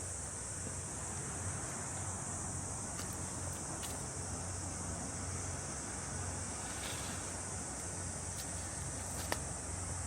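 Steady high buzzing chorus of cicadas, unbroken throughout, over a low steady rumble, with a few faint ticks scattered through it.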